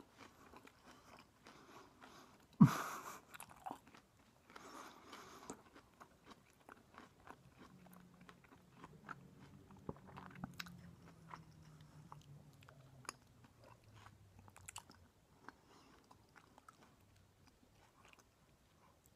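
Close-up chewing and crunching of a grilled lobster salad sandwich, with scattered small mouth clicks and one sharp knock about two and a half seconds in.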